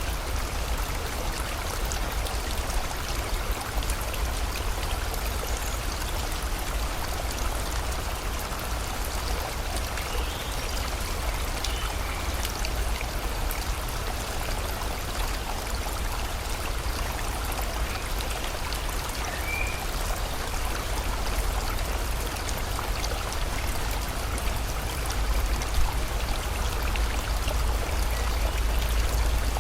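Steady rushing of a river or stream with rain, under a deep low rumble that swells near the end. A few faint short bird chirps come through around the middle.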